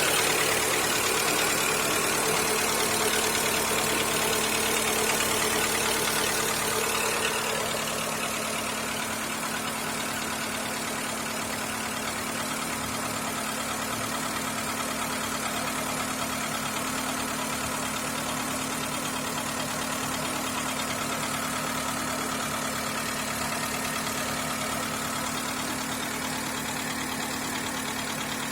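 Skoda Fabia II 1.4 engine idling with a knock, the fault the owner is demonstrating. It runs louder for about the first seven seconds, then settles to a quieter, steady idle.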